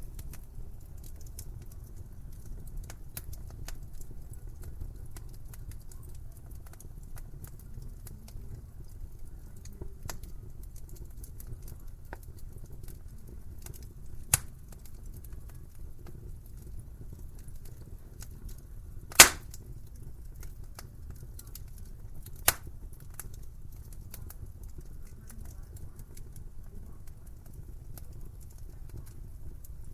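Wood fire in a fireplace crackling: a steady low rumble of flames with many small ticks and snaps, and three sharp pops, the loudest about two-thirds of the way through.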